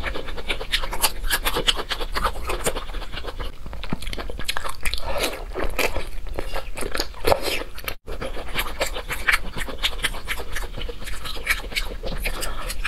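Close-miked eating of chewy glazed meat: a dense run of wet clicks, smacks and small squelches from biting and chewing. The sound drops out for an instant about eight seconds in.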